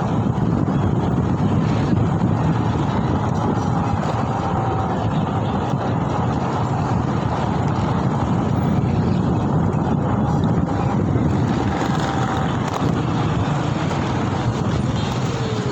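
Steady wind rush on the microphone and road and traffic noise while riding a Mober S10, a low, even rumble.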